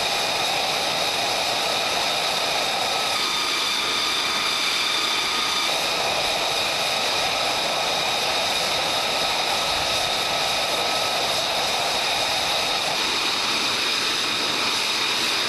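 F-35 fighter jet's engine running steadily: a constant rushing noise with a high, steady whine of several tones on top.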